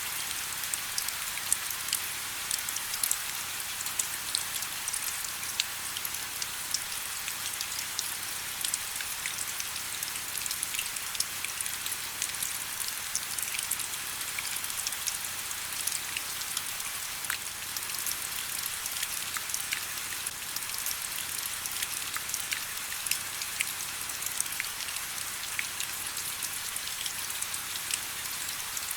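Steady rain: an even, high hiss with many small sharp drop ticks scattered through it, with no let-up or change.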